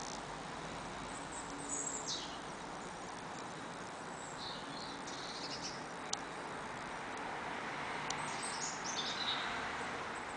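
Short high-pitched bird calls that fall in pitch, heard about two seconds in and again near the end, with fainter chirps in between. Under them runs a steady background hiss, and one sharp click comes about six seconds in.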